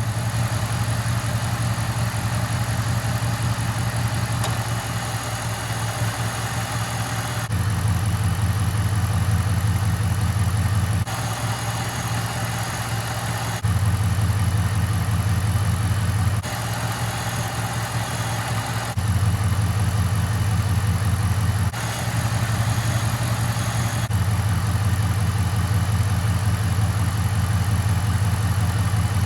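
2008 Dodge Dakota's 4.7-litre V8 idling steadily on 0W-20 synthetic oil, which the owner finds smoother and quieter. The sound jumps abruptly in level and tone every few seconds.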